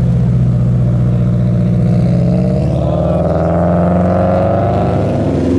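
A car engine running, then revving up with a steadily rising pitch from about halfway through, dropping back near the end.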